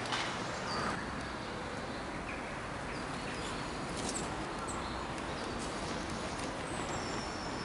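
Outdoor ambience: a steady background noise with a few short, high bird chirps scattered through it.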